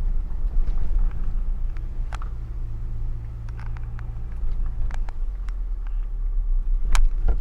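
Car engine and road rumble heard from inside a slowly moving vehicle, a steady low hum with scattered small knocks and clicks and one sharper knock near the end.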